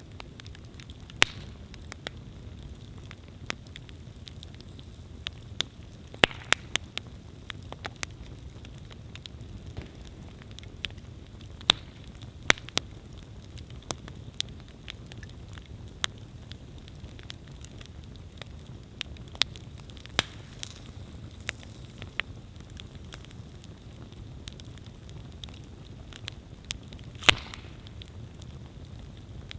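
Wood campfire burning: a steady low rumble of flame with irregular sharp crackles and pops, a handful of them louder.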